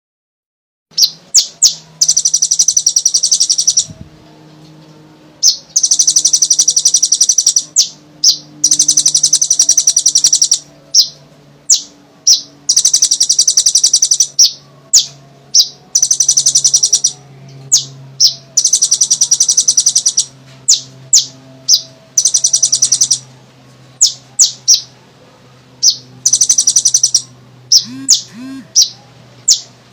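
A kolibri ninja (Konin) sunbird singing. Rapid, high trills of a second or two each alternate with short, sharp single chips, over and over.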